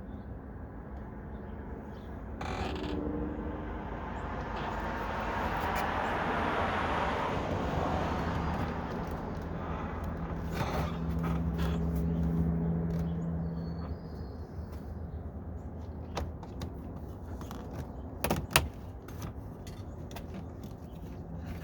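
A passing vehicle, swelling over a few seconds and fading away again, followed by a few sharp clicks near the end.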